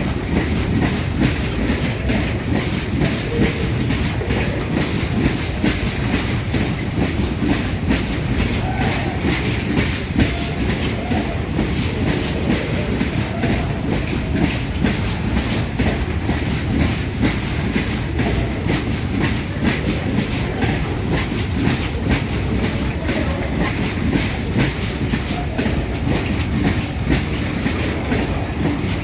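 Indian Railways goods train running steadily, its wagon wheels clattering over the rail joints in a dense stream of clicks over a loud rumble.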